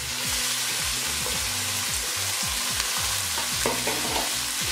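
Raw chicken mince sizzling in hot oil with fried onion and tomato in a non-stick karahi as it is tipped in and stirred with a silicone spatula. The sizzle swells a moment after the mince hits the oil.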